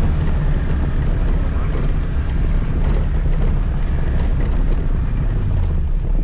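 Scooter riding along: its engine runs steadily with a low hum under a broad rush of road and wind noise.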